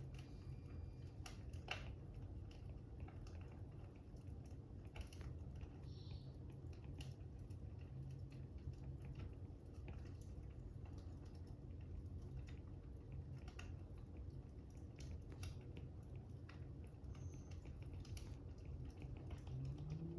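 Fire crackling, faint: a steady low rumble with scattered, irregular pops and snaps, and a brief rising tone right at the end.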